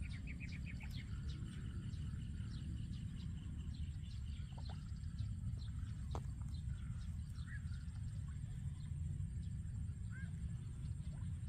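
Faint bird chirps, with a quick run of chirps about a second in and scattered calls after, over a steady low rumble and a constant high-pitched hum.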